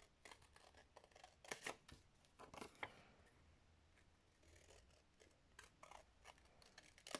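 Scissors snipping through a sheet of paper in short, irregular cuts, the loudest snips about a second and a half in.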